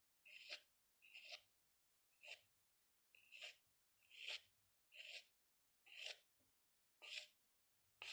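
Pen or pencil strokes on paper, about one short scratching stroke a second.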